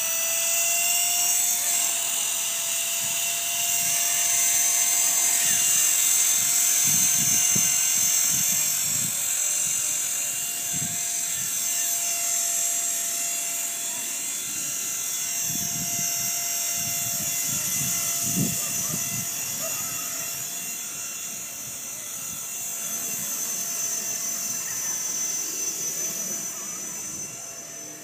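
Blade SR electric RC helicopter in flight: a steady high-pitched whine from its motor and rotors, holding a nearly constant pitch. Wind buffets the microphone in low rumbling gusts at times.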